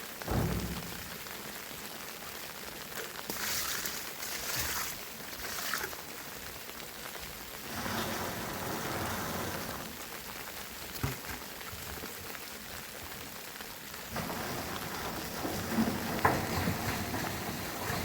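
Water splashing and running with an uneven, rain-like patter, louder in patches. A thump comes right at the start and another about eleven seconds in.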